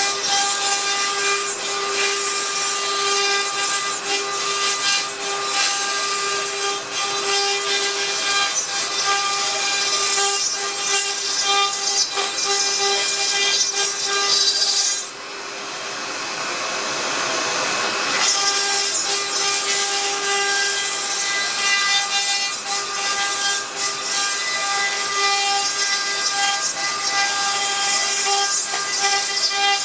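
CNC router spindle whining steadily as it mills carbon-fibre sheet, with a gritty cutting hiss over the whine. Midway the cutting noise drops out for about three seconds, then resumes.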